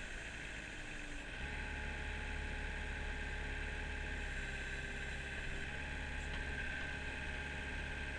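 Kubota mini excavator's diesel engine running steadily under way. Its low drone dips briefly about a second in, then carries on.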